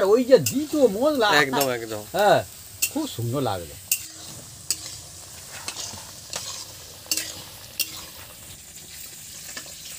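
Snake gourd slices sizzling as they fry in oil in a karahi, a metal spatula stirring them and clicking against the pan at irregular intervals. A voice is heard through the first three seconds or so, then only the quieter frying and the spatula clicks.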